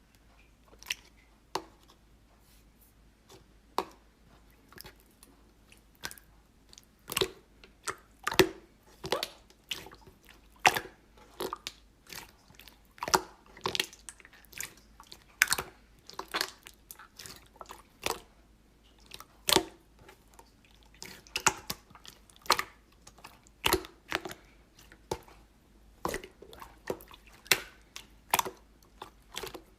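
Slime being pressed and kneaded by hand, giving irregular sharp clicks and pops, about one or two a second.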